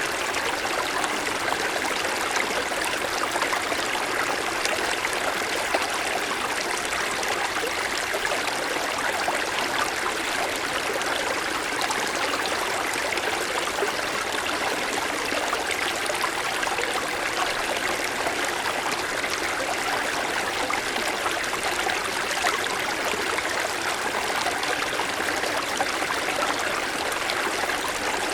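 Mountain stream flowing over snow-covered stones, a steady rush of running water.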